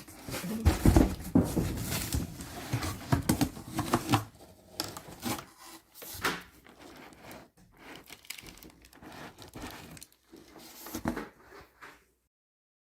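Irregular rustling and crackling handling noises with scattered clicks, loudest in the first few seconds, stopping abruptly shortly before the end.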